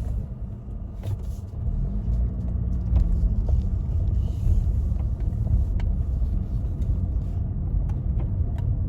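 Car's low engine and road rumble heard from inside the cabin while driving slowly, with a few faint clicks and knocks scattered through it.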